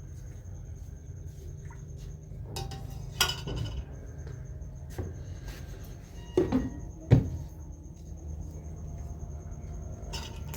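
Kitchen dishes and metal utensils knocking and clinking in short clatters, about three seconds in and again, louder, around six to seven seconds, over a steady low hum.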